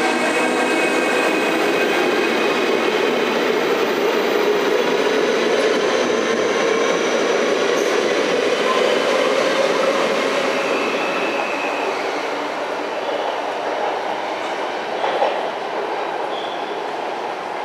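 Electric passenger train running on the track: a steady, loud rolling noise with faint whining tones that eases off gradually over the last several seconds. There is a single short click about fifteen seconds in.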